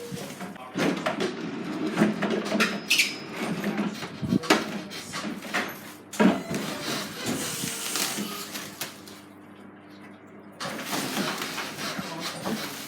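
Knocks, clatter and scraping as a pallet is worked off the truck's trailer bed with forks, the strikes coming irregularly over a faint steady hum.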